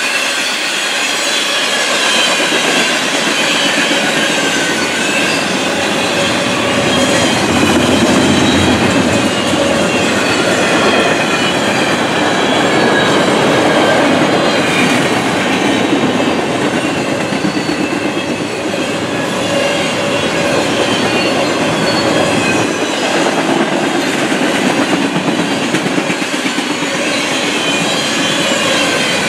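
Freight cars of a CSX double-stack intermodal train rolling past at trackside: a steady rumble and clatter of the wheels over the rail, with a faint high-pitched wheel squeal.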